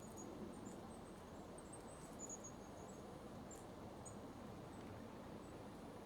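Faint, very high, thin chirps of small birds, a scatter of short calls mostly in the first four seconds, over a steady low hiss of outdoor ambience.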